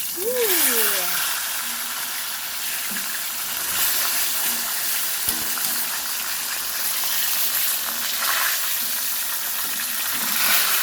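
Fish frying in hot oil in a pan, a steady sizzle throughout, with a brief rising-and-falling voice sound about a second in.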